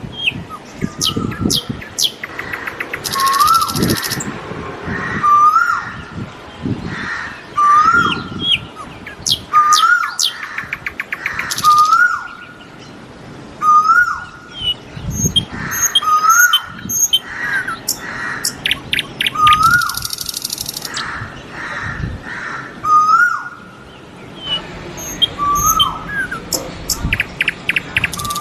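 Birds calling: one bird repeats a short call with an upturned hook about every two seconds, among other birds' chirps and brief rapid trills.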